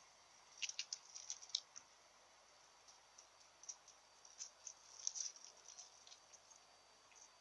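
Kitten's claws scratching and clicking on birch bark as it climbs: faint, irregular bursts of scratches, one cluster starting about half a second in and another scattered through the middle.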